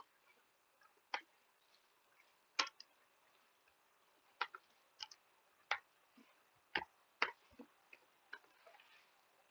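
Computer keyboard keys tapped slowly and unevenly while code is being typed: about a dozen faint, sharp clicks spread over the stretch.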